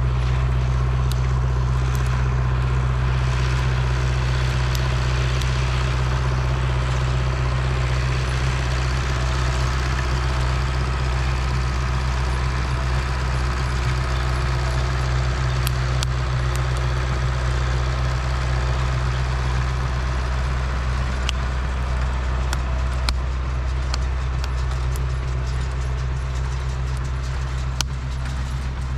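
An engine running steadily at an even speed, with a low hum and a few faint ticks.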